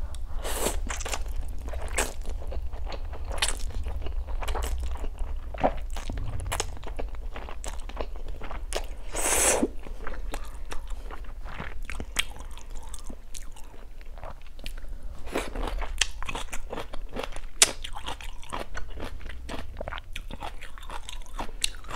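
Close-miked chewing and crunching while eating kimchi and Korean black bean noodles: a run of irregular crisp crunches and wet mouth sounds, with one longer noisy stretch about nine seconds in.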